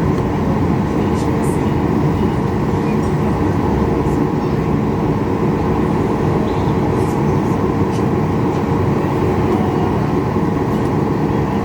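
Boeing 737 MAX 8 cabin noise: the CFM LEAP-1B jet engines and airframe make a steady, loud rumble with a faint constant hum.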